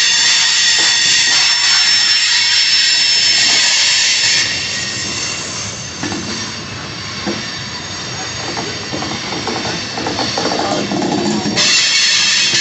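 Freight cars' steel wheels squealing against the rails in several high, steady tones, fading after about four seconds into the lower rumble and clatter of the rolling cars, then the squeal comes back near the end.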